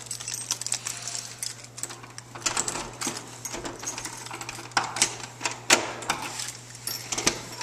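Keys rattling and clicking in a door lock as a door is unlocked and opened, a quick irregular run of small metallic clicks and jingles.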